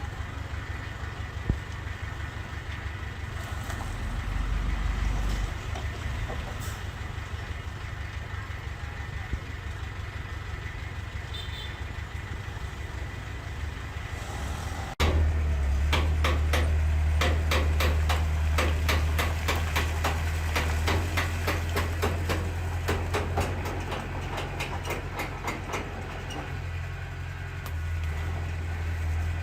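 Heavy diesel construction machinery running: a steady low engine rumble. About halfway through it cuts abruptly to a louder engine with rapid metallic clanking.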